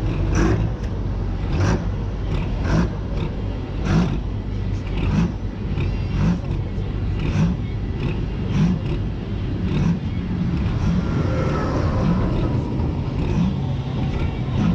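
Pulling tractor's engine running loud at the start line, a steady low rumble with short sharp pulses about once a second.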